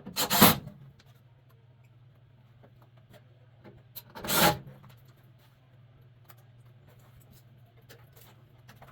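Two short, loud scraping sounds, one right at the start and one about four seconds in, over a steady low hum.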